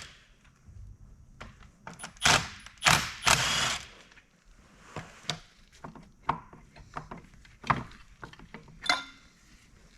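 Hand tools and metal engine parts clanking and knocking during a diesel engine teardown. A few louder rasping bursts come about two to three and a half seconds in, followed by scattered light clicks and knocks.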